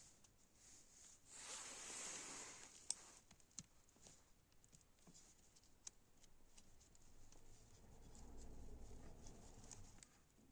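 Faint workbench handling sounds: a brief scraping rustle, a few light clicks, and a low hum near the end.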